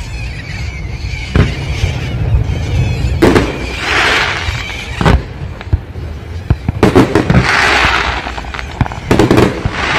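Aerial fireworks exploding: about five sharp bangs roughly two seconds apart, several of them followed by a second or more of crackling.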